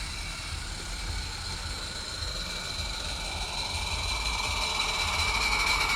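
Small live steam garden locomotive running: a steady hiss with a thin high whine over a low rumble, growing louder over the last couple of seconds.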